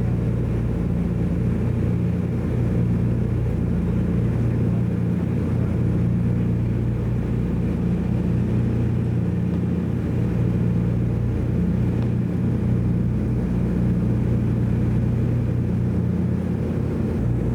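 Steady drone of a DC-3's twin radial piston engines and propellers heard from inside the cabin in cruise, a constant low hum with no change in pitch or level.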